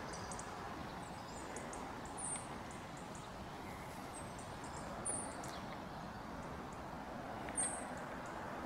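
Outdoor ambience: a steady background hiss with three brief high chirps from a small bird.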